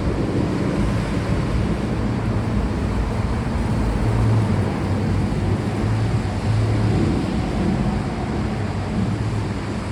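Steady rain with a continuous deep rumble of distant thunder underneath, swelling slightly now and then.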